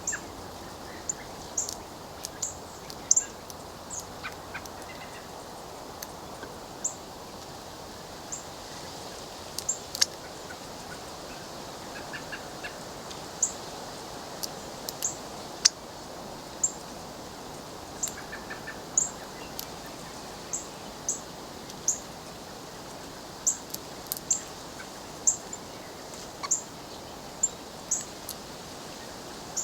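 Birds giving short, sharp, high-pitched chip notes at an irregular pace of about one or two a second, with a few brief taps among them, over a steady faint hiss.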